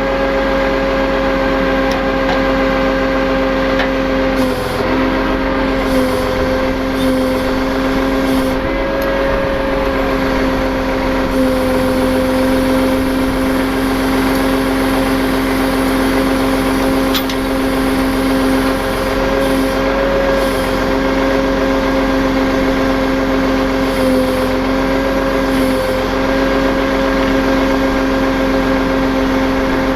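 Tow truck running steadily while winching, with a constant high whine that dips slightly in pitch now and then as the load changes.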